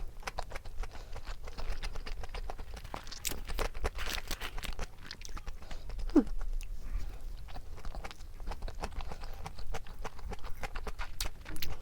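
Close-miked chewing of gimbap: rapid wet mouth clicks and smacks, continuous.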